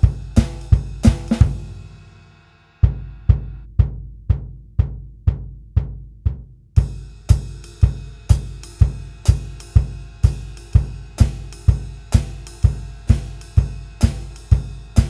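Drum kit playing a jive groove: bass drum on every beat, snare on 2 and 4, with a triplet ride cymbal figure and foot hi-hat. The groove stops for a break about a second and a half in, comes back thinner without the cymbal wash, and the full groove returns about 7 seconds in.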